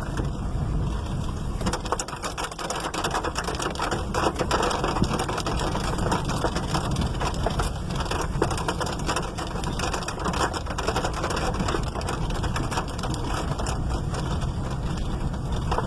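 Heavy rain pelting a moving car, a steady dense crackle of drops.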